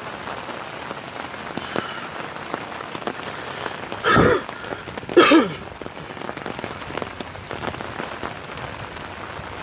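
Steady rain falling, with scattered drops tapping, and two short, loud sounds about a second apart near the middle.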